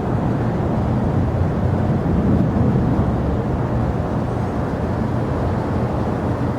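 Jet airliner engine noise: a steady rumble with a low hum underneath.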